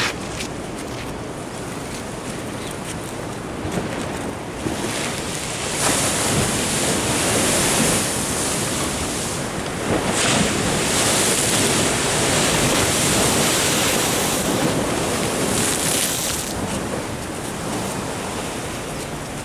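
Ocean surf washing in: a swell of rushing water builds about five seconds in, stays strong for about ten seconds and eases off near the end.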